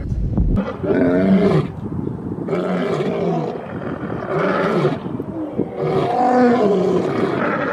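Animal roars, about four in a row, each under a second long, with the pitch bending up and then down.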